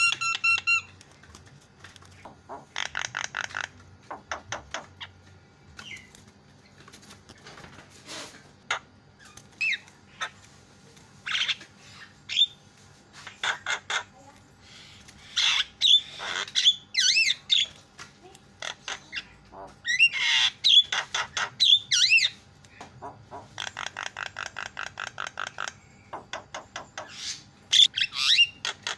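Javan myna (jalak kebo) calling in a loud, varied string of harsh squawks and whistled notes that glide up and down in pitch, broken by fast rattling runs of repeated notes about three seconds in and again near the end.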